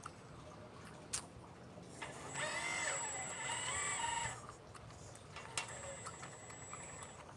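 Radio-controlled model excavator's electric motors whining in two spells, the pitch wavering as the machine moves, with a couple of sharp clicks in between.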